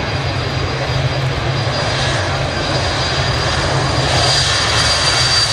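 Jet airliner engines running, a steady loud rush of noise with a thin high whine, growing slightly louder toward the end.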